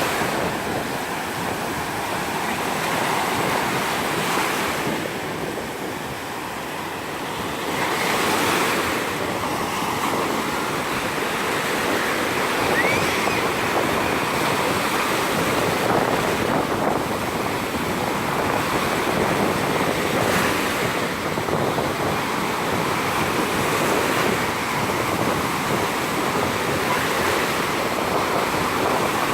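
Sea surf on a sandy beach: waves breaking and washing up the shore in a continuous wash that swells and eases, with a softer lull a few seconds in. Wind buffets the microphone throughout.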